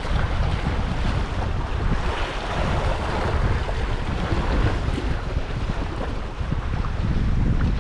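Wind buffeting the microphone with a heavy low rumble, over the steady wash of sea waves on the shore.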